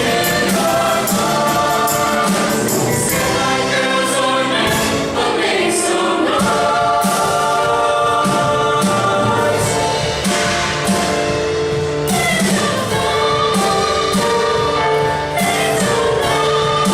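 A group of singers sings a song together in harmony, holding long chords over a steady beat.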